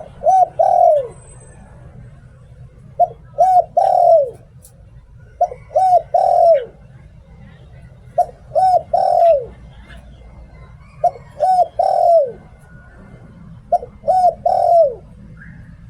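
Spotted dove cooing in its 'liu tan' style: six phrases about every two and a half seconds, each of two short coos and a longer third coo that falls away at the end.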